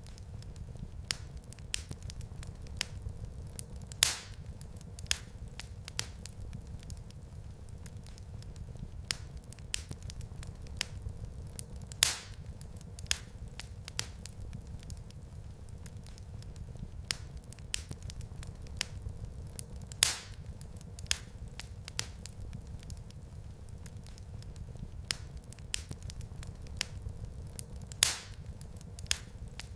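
Wood fire crackling in a fireplace: a steady low rumble of flame with frequent small snaps and a louder pop about every eight seconds.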